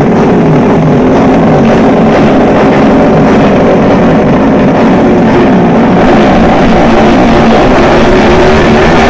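Drag-racing motorcycle engine running loud at high revs, steady with a slightly wavering pitch.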